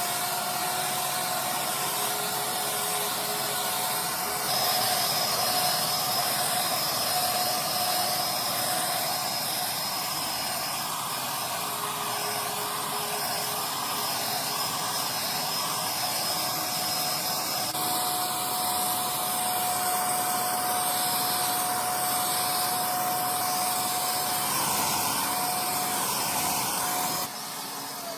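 A high-speed electric power tool running steadily, a loud rushing hiss over a constant whine; the motor winds down near the end.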